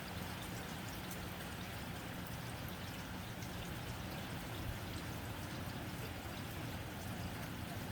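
Steady rain on a tin roof: an even hiss of falling water with scattered light drop ticks.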